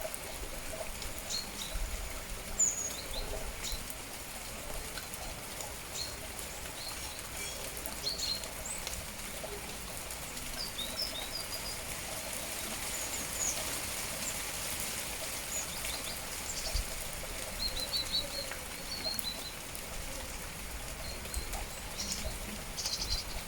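Steady rain with small birds chirping in short, high calls scattered throughout.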